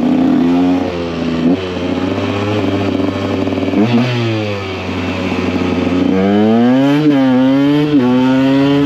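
KTM EXC 125 two-stroke single-cylinder engine running at low speed. The revs fall off about four seconds in, then climb again, with short dips near seven and eight seconds.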